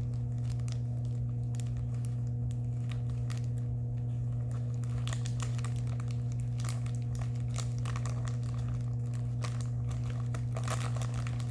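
Small plastic bags of diamond-painting drills crinkling and rustling as they are handled, with scattered light clicks. A steady low electrical hum runs underneath and is the loudest thing.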